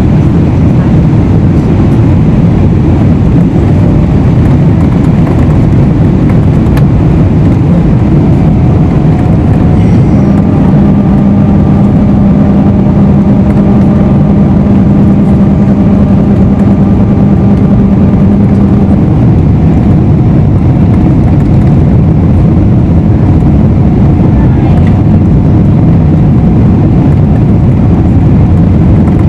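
Boeing 777-300ER cabin noise on approach: a steady, loud rush of GE90 engines and airflow. A steady low hum joins about ten seconds in and stops about nine seconds later.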